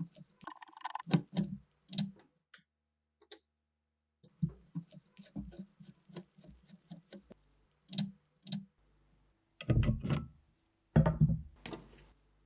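Parts of a Mauser K98 rifle being handled in a small room: scattered clicks, taps and knocks of metal and wood, loudest in a cluster near the end.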